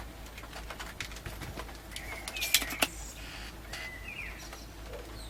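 Soldering work on a circuit board: a few light clicks and taps, the two loudest about halfway through, with a couple of short high chirps in between, over steady rain hiss.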